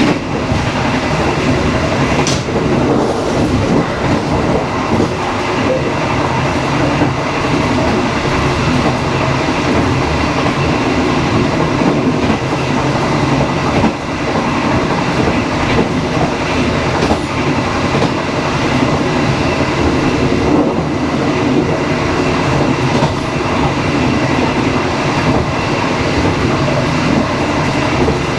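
Dharmawangsa passenger train running along the track, a loud, steady rumble of wheels and carriage, with a sharp click about two seconds in.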